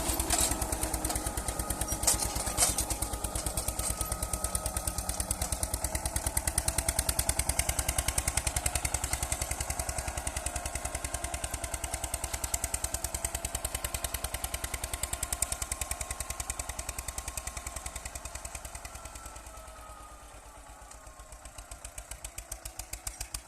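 Eicher 242 tractor's diesel engine running with a fast, even chug, with two sharp clicks about two seconds in. The sound fades about four-fifths of the way through, then swells again.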